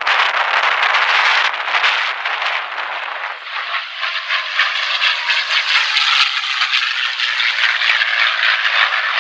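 Propeller aircraft flying past, a steady rushing engine noise, with a faint tone that falls slightly in the second half.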